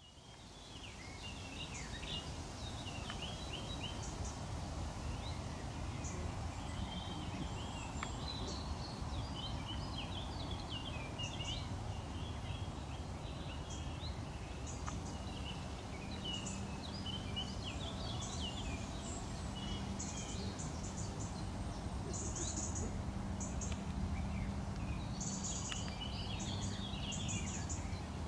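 Several songbirds singing, with many short, warbling chirps and short higher chirps that grow busier in the second half, over a steady low rumble. The sound fades in at the start.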